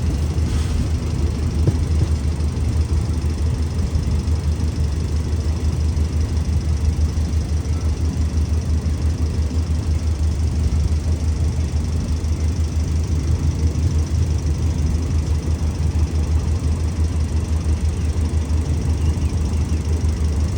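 Alsthom diesel-electric locomotive's engine running steadily at a low, even pace, with a strong low hum throughout.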